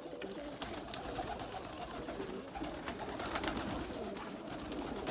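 A flock of domestic pigeons cooing, many low coos overlapping into a continuous murmur, with scattered light clicks among them.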